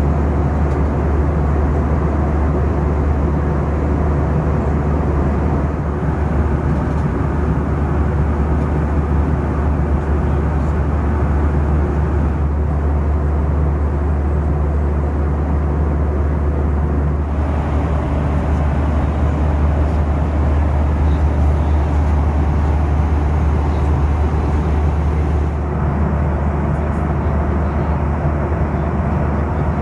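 Steady cabin noise of a Boeing 737 airliner in cruise: a constant deep drone of engines and airflow, shifting slightly in tone a few times.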